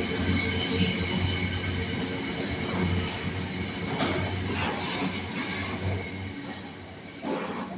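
Train running through the station: a steady hum with faint high tones and rail noise, dying away toward the end.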